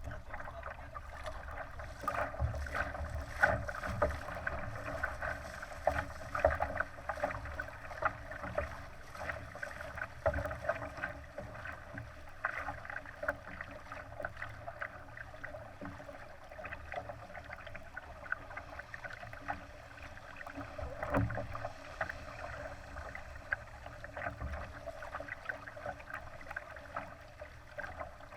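Water rushing and slapping against the hull of a Laser sailing dinghy under way: a steady rush with an irregular patter of small splashes, over a low rumble.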